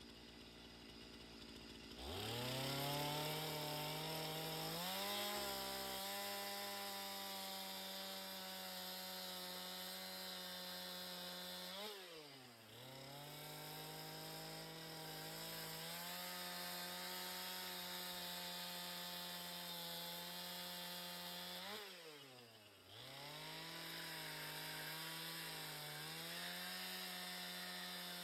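Two-stroke chainsaw starting about two seconds in and revving up, then running at high, steady revs. Twice the engine note drops sharply and climbs straight back.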